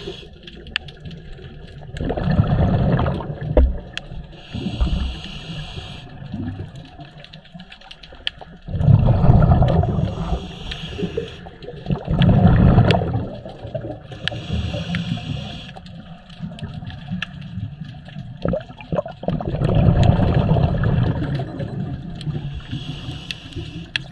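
A scuba diver breathing through a regulator underwater: a short hissing inhale, then a louder burst of exhaled bubbles, about four breaths in all.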